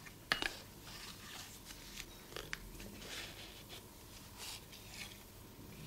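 A metal tablespoon scooping cocoa powder out of a cardboard carton over a mixing bowl. There is one sharp tap near the start, then faint, scattered scrapes and rustles.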